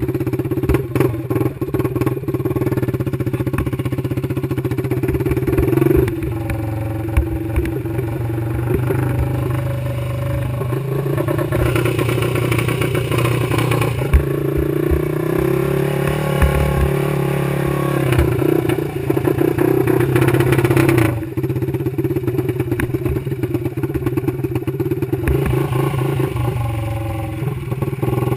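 Yamaha YFZ450R quad's single-cylinder four-stroke engine running, its revs rising and falling, with scattered clattering knocks.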